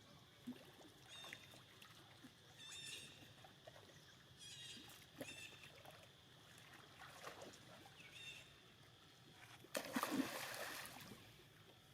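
Faint, short, high-pitched squeaks from monkeys, heard several times, then a louder noisy burst about ten seconds in.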